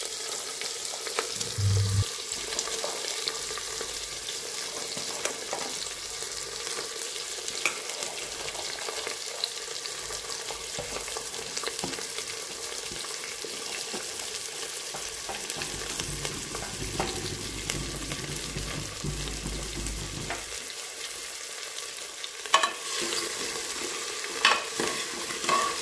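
Chopped vegetables sizzling in hot ghee in an aluminium pressure cooker, a steady hiss with light crackles. In the last few seconds a steel ladle clicks and knocks against the pot as the vegetables are stirred.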